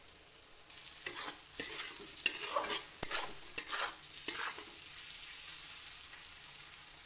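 Thin-cut potatoes frying in mustard oil in a kadhai, sizzling steadily, while a spatula scrapes and tosses them in a run of strokes from about a second in. The spices and garlic paste are being mixed through the half-fried potatoes.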